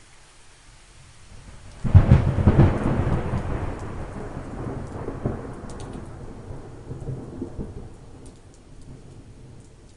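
A thunderclap breaks sharply about two seconds in, crackling at first, then rolling away and fading over the next several seconds. Steady light rain continues underneath.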